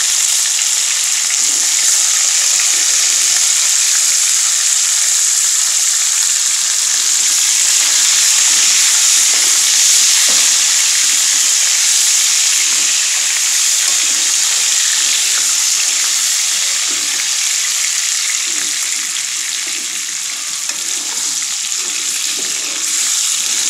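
Potato chunks frying in hot oil in a kadai, giving a steady sizzle, with a spatula now and then stirring and scraping them around the pan.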